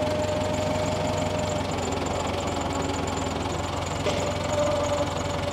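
Tiger tractor's engine running steadily, with a fast even pulse and a faint steady whine over it.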